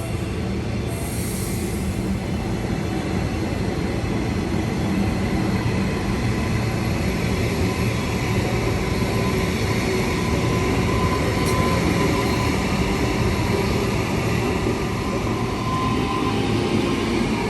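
Brisbane suburban electric train running along the track, a steady rumble of wheels and running gear that builds a little over the first few seconds. A faint high whine comes and goes around the middle and again near the end.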